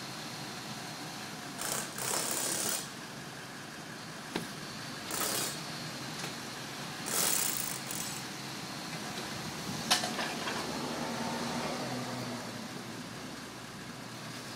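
A crane truck running at a work site: a steady background of machine noise with three short hissing bursts and a sharp knock about ten seconds in.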